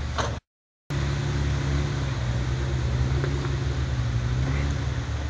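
Jeep Wrangler's engine running steadily as it crawls up a rocky trail, an even drone that holds the same pitch throughout. It comes in after a brief moment of dead silence about half a second in.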